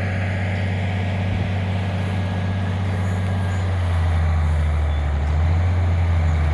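Tractor engine running steadily under load while it pulls a round baler that is picking up a hay windrow. A deep, even hum grows louder about four seconds in as the rig comes closer.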